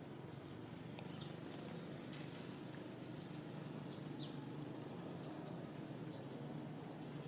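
Faint outdoor ambience: a steady low hum with short, high, falling chirps about once a second.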